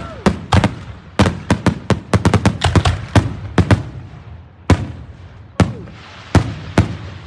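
Fireworks bursting in a rapid string of sharp bangs, thinning after about four seconds to a few single booms about a second apart.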